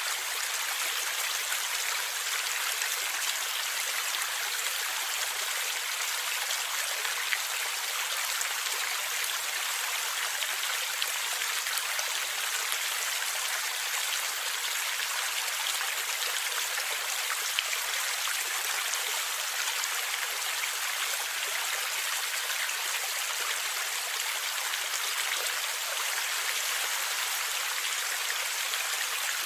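A river or stream flowing and gurgling: a steady, even rush of water with little low rumble and a few faint splashes.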